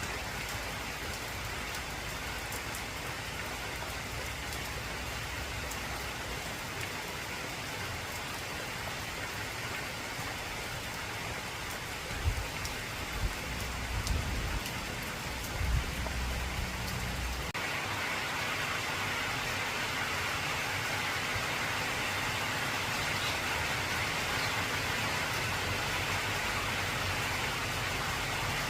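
Heavy rain falling on an old corrugated zinc roof, with low thunder rumbling a few times about twelve to sixteen seconds in. A little after that the rain turns louder and brighter.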